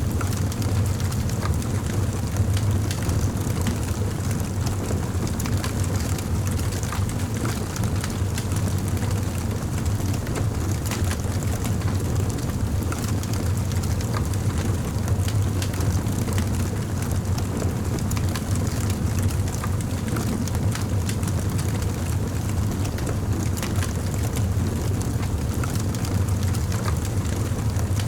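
Campfire burning: a steady low rumble of flames with frequent small crackles and pops scattered through it.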